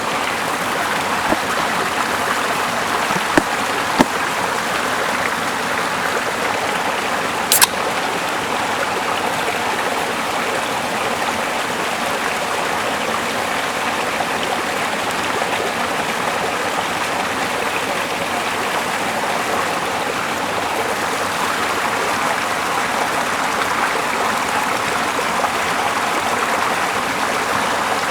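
Small mossy river flowing steadily, its water noise even and constant. A few short sharp clicks stand out a few seconds in.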